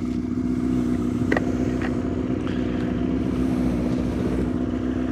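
Motorcycle engine idling steadily at an even, unchanging pitch.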